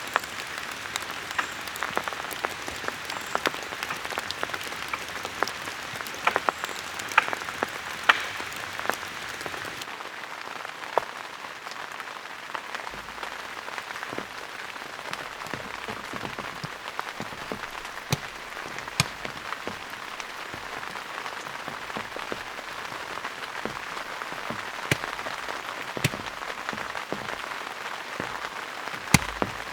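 Steady rain falling, with many louder individual drops ticking close by. The hiss softens slightly about ten seconds in.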